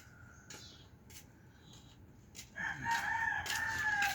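Rooster crowing once: one long call starting about two and a half seconds in, dipping slightly in pitch near its end.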